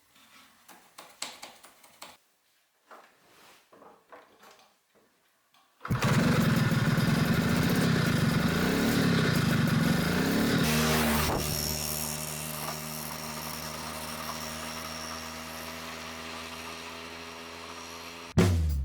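Faint clicks and handling noises, then about six seconds in the 1985 Puch Maxi S moped's small two-stroke single-cylinder engine starts suddenly. It revs unevenly for a few seconds, then settles into a steady idle that slowly grows quieter.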